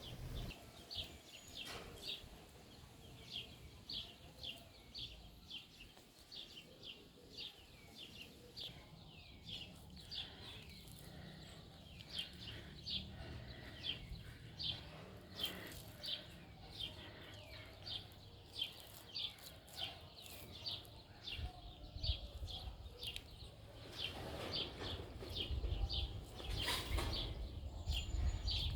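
A bird calling over and over, a short high chirp that slides down in pitch, about twice a second. Low rumbling noise comes in near the end.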